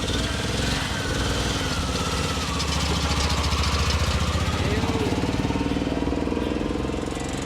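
Engine of a classic car or motorcycle running steadily at low revs, with a rapid, even beat of firing pulses.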